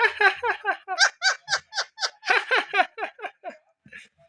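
Laughter: a rhythmic run of 'ha-ha' pulses, about four a second, that fades out after about three and a half seconds.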